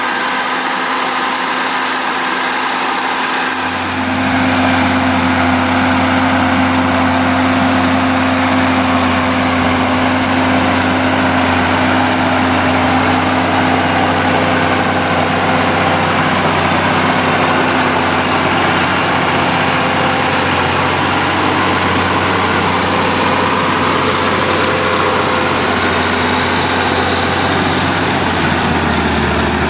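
Fiatagri 180-90 Turbo DT tractor's six-cylinder turbo diesel running steadily under the load of a deep-set three-furrow plough. Its note grows louder and fuller about four seconds in, then holds steady.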